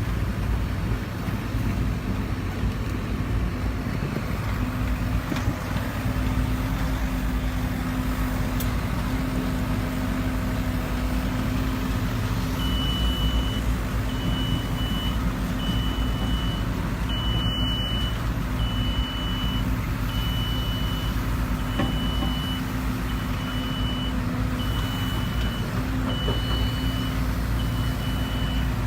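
Heavy diesel machinery running steadily: a JCB JZ140 excavator at work. From about halfway through, a reversing alarm beeps about once a second.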